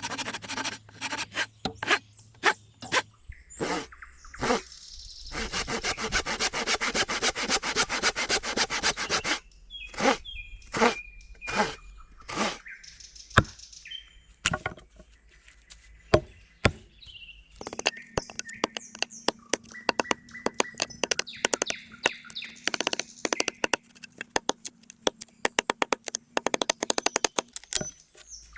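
Wood being worked with hand tools: irregular knocks and cracks, with two long stretches of rapid scraping strokes, one about six seconds in and one from about eighteen seconds in.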